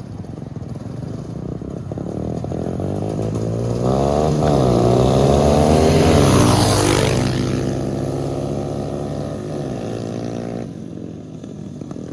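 Small motorbike engine revving as it comes closer. It is loudest about six seconds in, then drops in pitch and fades as it moves away.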